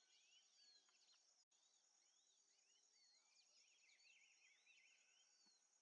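Near silence, with very faint forest birdsong: many short, high chirps and gliding whistles.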